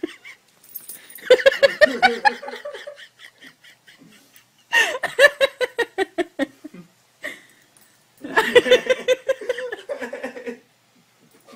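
A person laughing hard in three bouts of rapid pulsed laughter, the middle bout sliding down in pitch as it trails off.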